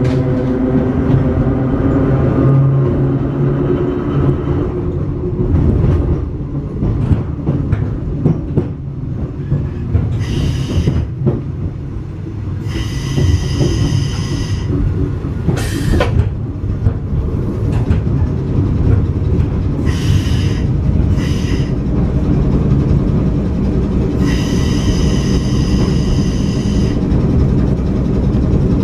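Hakone Tozan Railway Moha 1-type electric railcar (Moha 103) running on the line, its wheels rumbling and clicking over the rails. A low hum fades out in the first few seconds. Several high-pitched wheel squeals follow, the longest lasting over two seconds, from the wheel flanges grinding against the rail on tight curves.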